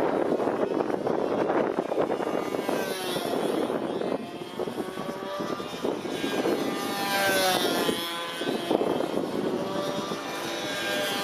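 Control-line model airplane engine running at speed, its buzzing pitch rising and falling over and over as the plane circles on its lines, with gusty wind noise underneath.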